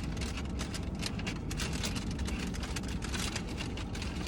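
Close chewing and mouth noises, a run of irregular soft crackles, over the steady low hum of a car idling, heard from inside the cabin.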